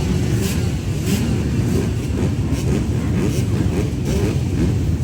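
Several dirt bike engines running together, with many overlapping short revs rising and falling in pitch.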